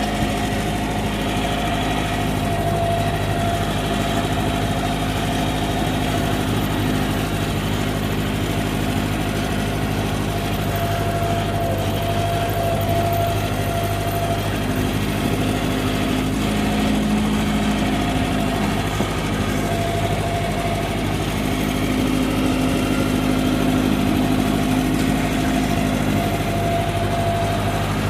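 Ford 8N tractor's four-cylinder flathead petrol engine running steadily, with an even, unchanging note.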